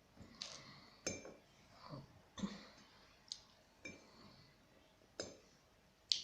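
An animal crunching dry cat kibble: about eight short, sharp crunches at irregular intervals, some with a brief high clink.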